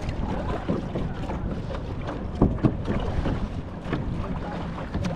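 Wind buffeting the microphone while a kayak is paddled on open water, with water noise and a couple of sharp knocks about halfway through.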